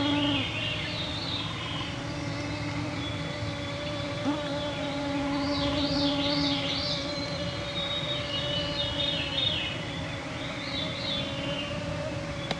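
Mosquitoes whining close to the microphone in a steady hum, with songbirds singing warbling and descending phrases in the background.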